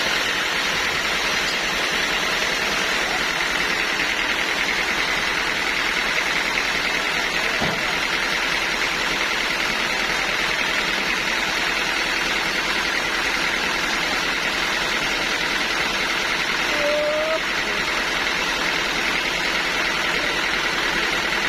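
Sawmill machinery running steadily: a constant, dense mechanical noise with a faint high whine and no change in level.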